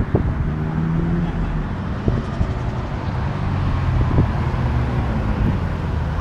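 Car engine and exhaust running at low revs, with three short sharp cracks about two seconds apart.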